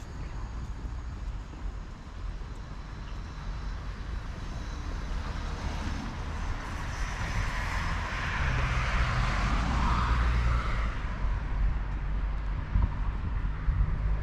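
City street traffic rumbling steadily, with a vehicle passing that swells from about six seconds in and fades after about eleven.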